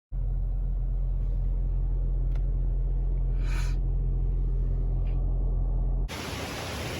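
Steady low rumble of a car heard from inside the cabin while driving, with a brief hissing whoosh about halfway through. About six seconds in it cuts abruptly to an even rushing hiss.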